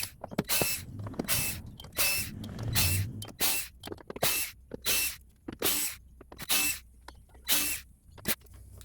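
Power drill-driver run in short bursts, about a dozen brief whirs less than a second apart, as screws are backed out of the amplifier cover.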